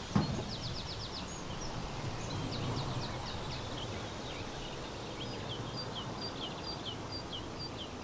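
Small garden birds chirping over a steady background hiss: a quick run of short high notes about half a second in, scattered calls, then short chirps repeated a few times a second near the end. A brief thump comes just after the start.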